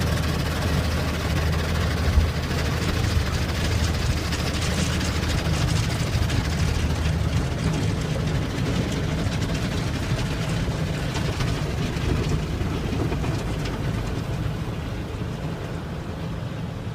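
Automatic car wash heard from inside the car: a loud, steady rushing and hissing of the wash over a low machinery hum, easing slightly near the end.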